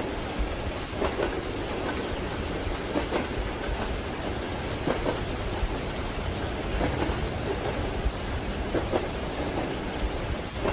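Steady rain on a moving train compartment, over a deep low rumble from the train. Soft wheel knocks on the rails come every second or two.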